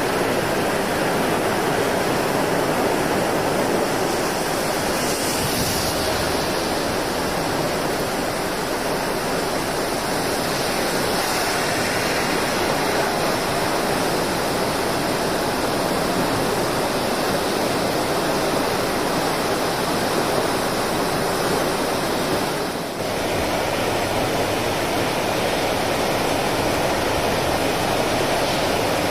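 Typhoon-swollen river in flood, its fast water rushing in a steady, even wash of noise.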